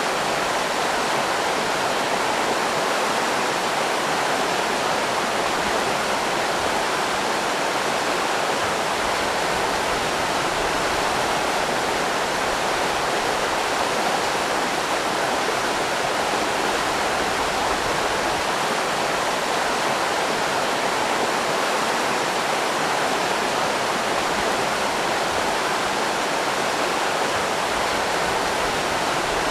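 River rapids rushing steadily, a constant even roar of water with no breaks.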